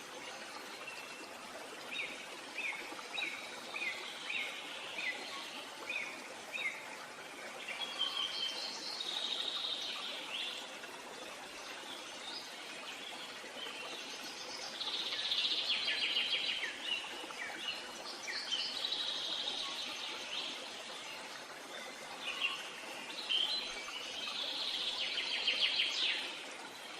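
Wild birds singing over a steady background hiss: a run of short repeated chirps about every half second, then several longer warbling songs.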